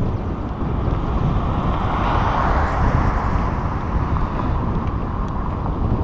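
Wind buffeting the microphone of a camera riding along on a bicycle, a constant low rumble. About two seconds in a rushing sound swells up and fades away again.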